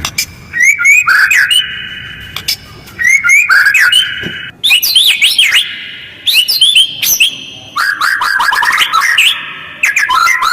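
White-rumped shama (murai batu) singing loud, fast, harsh phrases of sweeping whistles and chattering notes, in about five bursts with short pauses between them.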